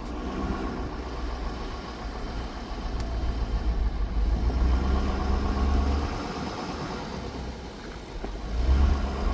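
Ford Super Duty diesel pickup driving slowly over a rough dirt road, its engine and tyres heard from inside the cab as a steady low rumble. The rumble swells a little in the middle.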